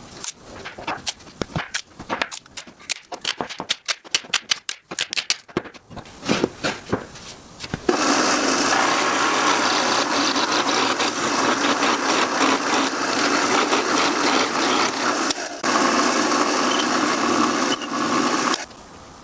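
A run of quick wooden clicks and knocks, then a power tool working wood runs steadily for about ten seconds, breaking off briefly once before stopping near the end.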